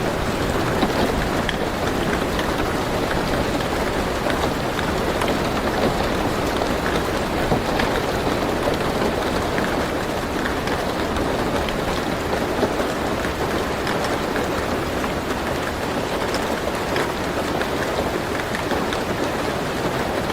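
Steady rain falling on a car roof, heard from inside the car, with scattered individual drops ticking through the even patter.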